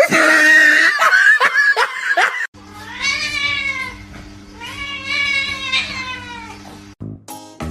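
A cat yowling: a harsh, screechy cry for about two and a half seconds, then two long drawn-out meows that rise and fall in pitch.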